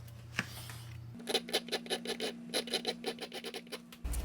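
Small metal watchmaker's tool being sharpened with quick, even strokes, about five a second, starting about a second in, over a steady low hum.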